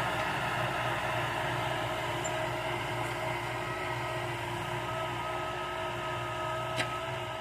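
Kubota tractor's diesel engine running steadily under load while plowing, with a single short click near the end.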